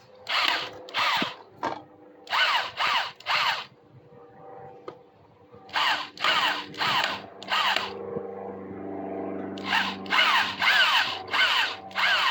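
Power drill spinning in short trigger bursts, in groups of three to five, as it works old deck screws loose. There is a steadier lower hum for a couple of seconds partway through.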